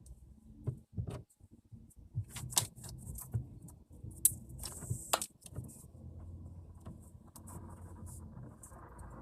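Slime being squeezed and kneaded by hand: a run of wet, sticky clicks and pops, thickest in the first five seconds, over a steady low rumble.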